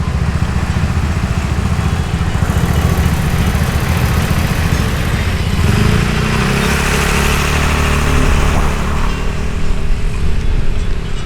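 Motorbike engine running while riding, with wind and road noise. The sound swells for a few seconds past the middle, with a steadier engine note.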